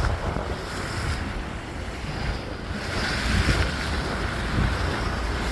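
Wind buffeting the microphone: an unsteady low rumble over a steady rush of noise.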